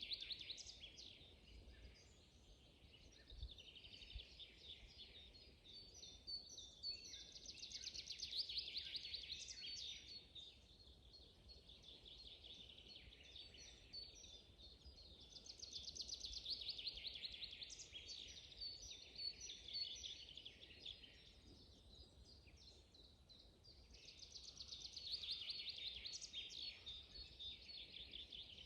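Songbirds singing: one bird repeats a fast, high run of notes lasting two to three seconds about every eight seconds, with other short chirps scattered in between.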